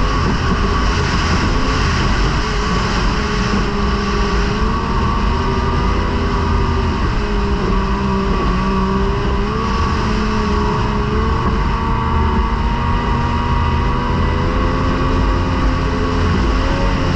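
Racing outboard motor of a T850-class race boat running flat out, its pitch wavering slightly as the boat rides the water, over a heavy low rumble of wind and hull noise.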